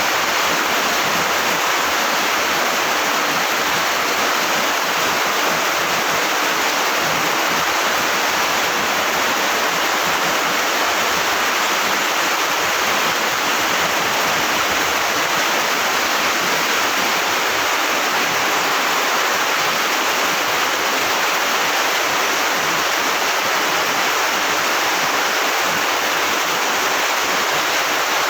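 Heavy rain pouring down as a dense, steady hiss.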